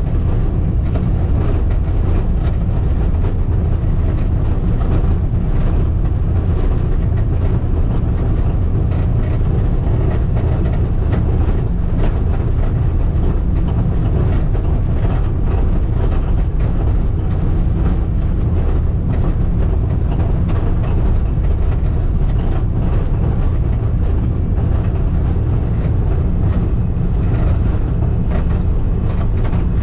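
Skid steer's diesel engine running steadily while grading a gravel driveway, with a continuous clatter and rattle over the top.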